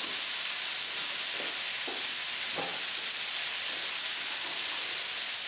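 Ratatouille vegetables (peppers, courgette, aubergine and tomatoes) frying in olive oil in a pan, a steady sizzle.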